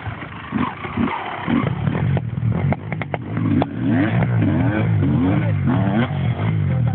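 Motocross bike engines revving hard, the engine note climbing and dropping again and again as the throttle is worked, with a few sharp clacks about halfway through.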